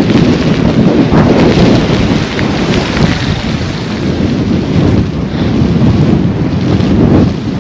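Strong blizzard wind buffeting an action-camera microphone: a loud, gusting, low rumble with a hiss of blowing snow over it.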